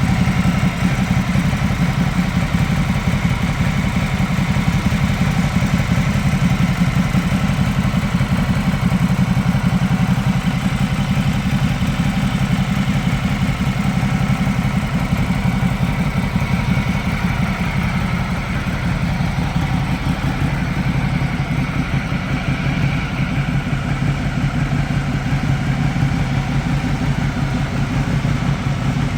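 Ducati Multistrada 1200's L-twin engine idling steadily.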